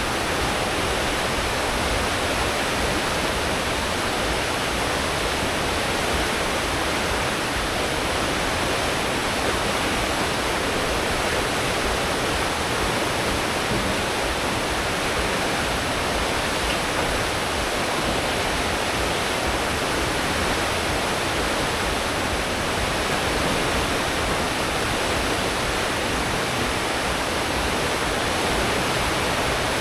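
Churning wake of a cruise ship under way at full speed, heard from the stern: a steady, even rush of propeller-churned water.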